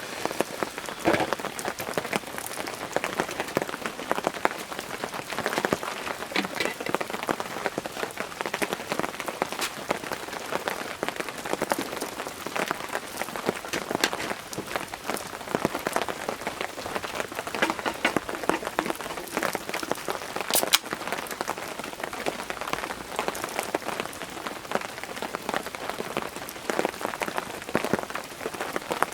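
Steady rain falling, with many individual drops ticking irregularly on a surface.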